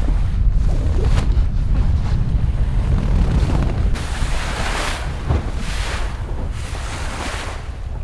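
Wind buffeting the microphone with a heavy low rumble, and water rushing and splashing along the hull of an ocean racing sailboat under way. The water hiss swells in repeated surges in the second half.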